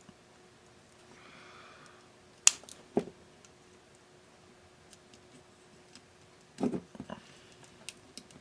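A few sharp clicks and dull knocks from handling things on a repair bench, the sharpest click about two and a half seconds in, over a faint steady hum.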